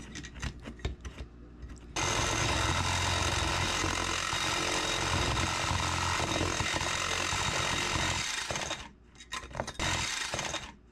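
Electric jigsaw cutting through a metal lantern's thin sheet metal, starting about two seconds in and running steadily for about seven seconds before stopping. Light metal clicks and scrapes come before and after.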